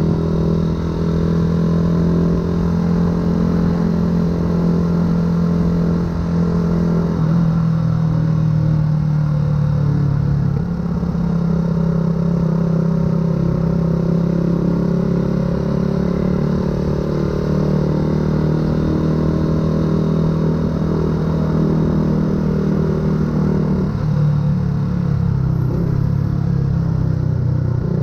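A 2008 Yamaha R125's 125 cc single-cylinder four-stroke engine running through an aftermarket full exhaust, heard from the rider's position while riding. The engine note holds steady for long stretches and shifts in pitch a few times, about a quarter of the way in, again soon after, and near the end.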